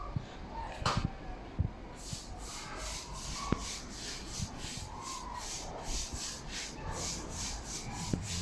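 Rhythmic back-and-forth rubbing strokes on a stone tile floor, about three a second, as the floor is polished, with a couple of sharp knocks.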